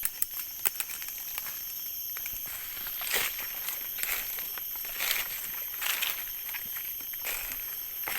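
Footsteps crunching through forest leaf litter, about one step a second, after a few sharp clicks at the start. Insects drone steadily at a high pitch underneath.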